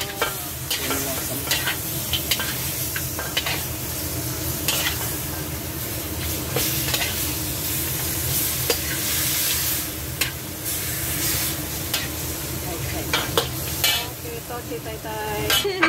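Pork chops and tomatoes sizzling in a hot wok, with a metal ladle stirring and scraping through them and clinking against the pan many times.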